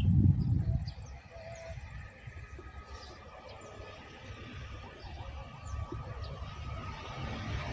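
Low rumble of a train approaching along the line, an Argo Parahyangan hauled by a CC206 diesel-electric locomotive, growing louder toward the end. A heavier low rumble at the very start, and a few short bird chirps over the top.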